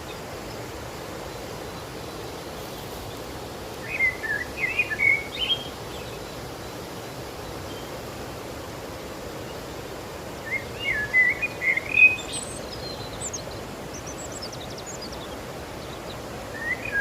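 Steady rush of the Savegre River's water, with a bird singing short warbling phrases over it: about four seconds in, again about ten seconds in, and once more near the end.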